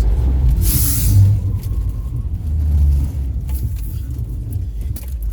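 Car's road and engine rumble heard from inside the cabin as it loses traction on the rain-soaked highway and nearly slides into the wall. There is a brief hiss about a second in, with heavier surges of rumble around then and again near the middle.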